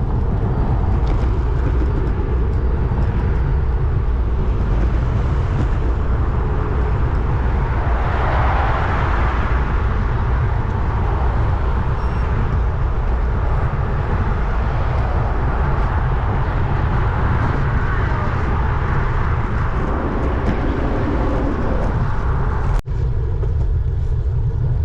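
Steady low wind buffeting on the microphone with road noise, swelling as a vehicle passes about eight seconds in and again later, and one sharp click near the end.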